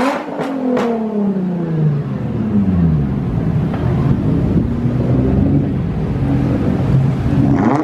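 Car engine revving: its pitch sweeps sharply up, then falls away and wanders up and down as the car drives through the gears. A few short sharp knocks come within the first second.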